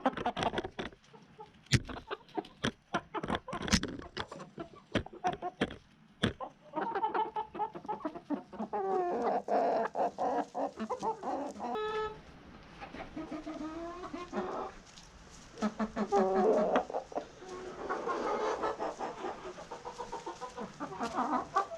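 Domestic chickens clucking, with wavering calls that come and go through most of the stretch. Sharp knocks and clicks sound during the first few seconds.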